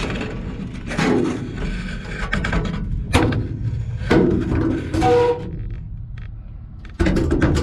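Handling knocks and thumps as a camera is worked into a riveted sheet-metal aircraft wing, with several sharp knocks over a low rumble. One knock about five seconds in rings briefly.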